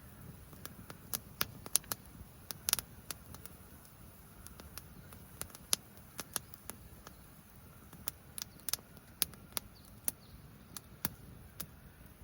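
Wood campfire crackling: irregular sharp pops and snaps, some louder than others, over a steady low hiss.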